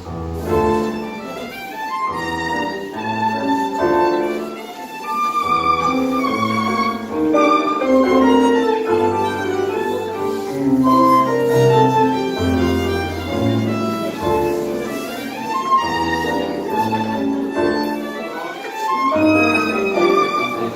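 Live tango music from a small ensemble, a violin carrying the melody over a bass line.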